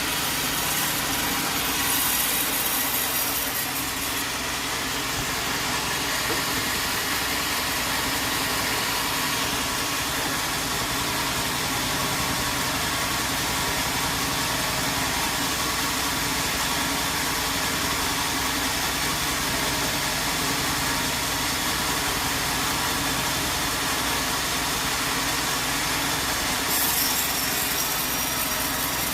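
Sawmill machinery running steadily: a constant engine or motor hum under a wide, even hiss, with the high hiss shifting briefly a couple of seconds in and again near the end.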